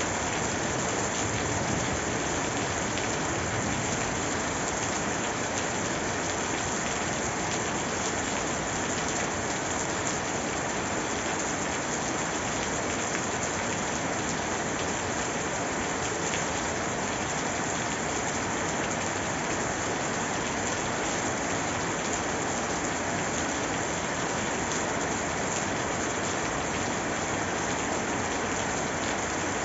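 Steady heavy rainfall, an even hiss of rain falling on surfaces with no pauses or changes.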